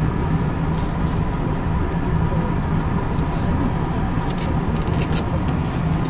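Steady hum inside a stationary electric commuter train car, from its onboard equipment running while the train stands, with a thin steady tone and scattered faint clicks.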